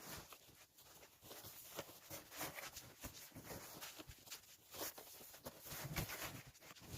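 Faint, irregular rustling with light clicks and knocks.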